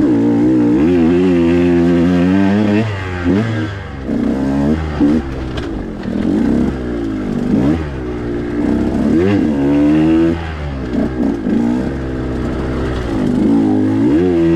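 2021 KTM 125 XC two-stroke single-cylinder dirt bike engine, fitted with an RK Tech cylinder head, revving up and down repeatedly as it is ridden along a trail, the pitch climbing and dropping every second or two with throttle and gear changes.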